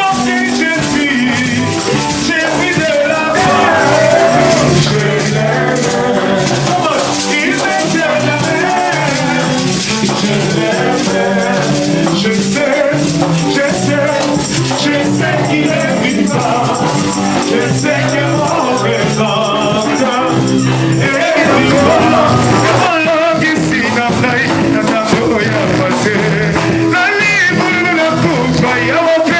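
Church worship music: voices singing over a band, with rattling shaker-type percussion.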